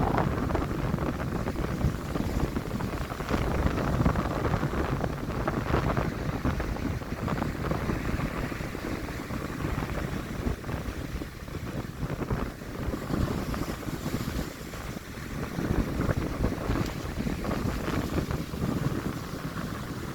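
Stormy sea surf: waves breaking and washing in, rising and easing in loudness, with wind buffeting the microphone.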